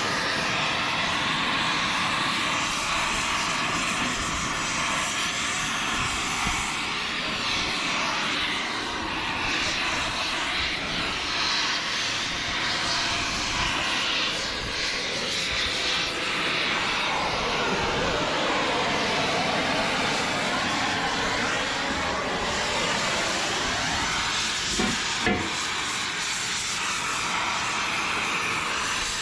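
A steady, loud rushing hiss from a workshop tool working on a truck chassis, running without a break, its tone drifting slowly. A couple of brief knocks come about 25 seconds in.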